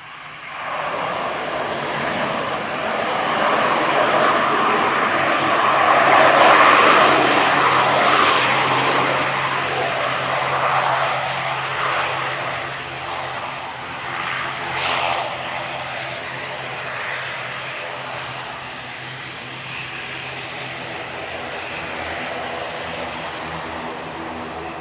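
Jet airliner's engines passing close, the noise coming in suddenly, swelling to its loudest about six to seven seconds in, then slowly fading away.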